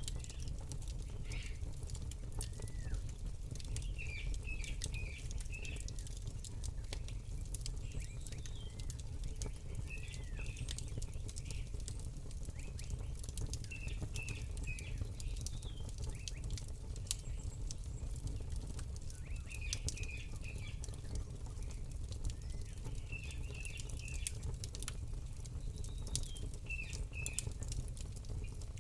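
Campfire crackling with a steady low rumble underneath, while a small bird gives short runs of high chirps every few seconds.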